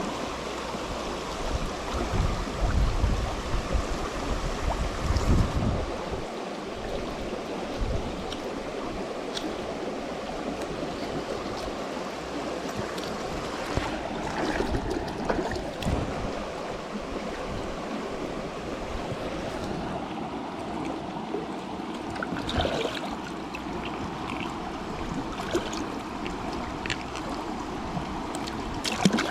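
Creek water running steadily. A few low thuds about two to six seconds in, and scattered faint clicks later on.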